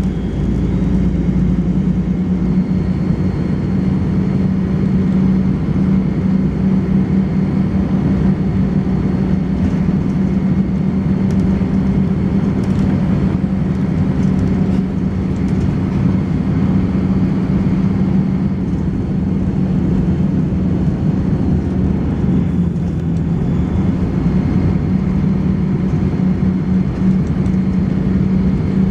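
Volvo B10BLE bus's diesel engine running steadily under way, with a faint, steady high-pitched whine above it that starts a couple of seconds in and drops out briefly a little past two-thirds through.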